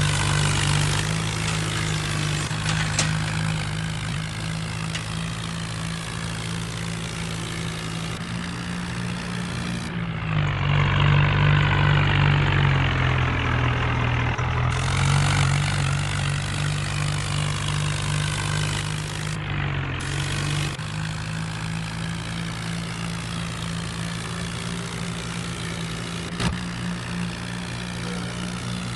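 Tractor's diesel engine running steadily under load, its pitch dipping and then recovering about ten seconds in.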